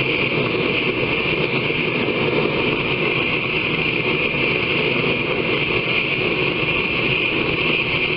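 Steady, unbroken grinding noise with a strong hiss, typical of a power grinder working a blade's edge.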